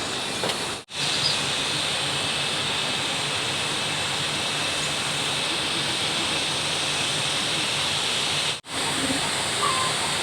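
Steady rushing of flowing stream water, cut off for an instant twice, about a second in and near the end.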